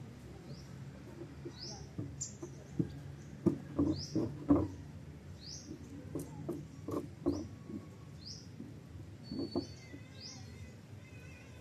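A small bird chirping, one short rising chirp about every second. A cluster of dull knocks, the loudest sounds, comes a few seconds in, with a few lighter taps later.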